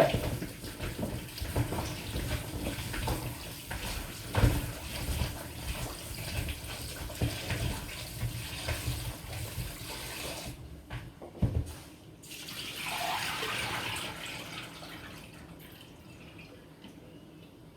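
Kitchen tap running into a bowl as vegetables are washed under it, with a few knocks against the bowl. The water stops about ten seconds in, runs again briefly a couple of seconds later, then fades away.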